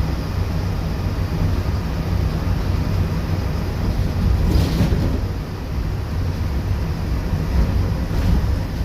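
Cabin noise inside a Marcopolo Torino G7 city bus under way: a steady low engine drone with road noise. A short burst of hiss comes about four and a half seconds in, and a fainter one near the end.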